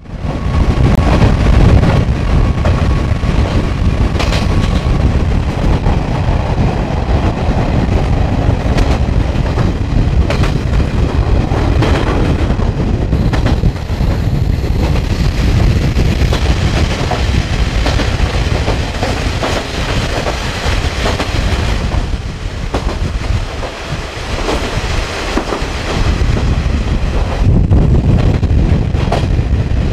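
A train running through a tunnel, heard from on board: a loud, continuous rumble of wheels on rail that starts suddenly, echoing off the tunnel walls, with scattered clacks over the rail joints.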